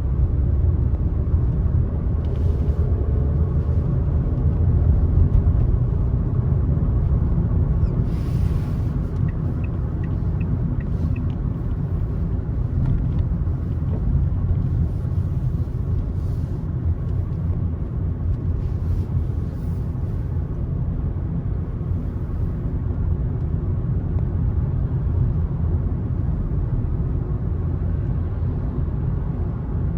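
A car driving along a road: a steady low rumble of road and engine noise, with a few brief, faint hissing swishes now and then.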